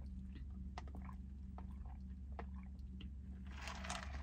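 Quiet mouth sounds of sipping a soft drink through a straw and chewing, small wet clicks scattered through, over a steady low hum, with a louder burst of noise near the end.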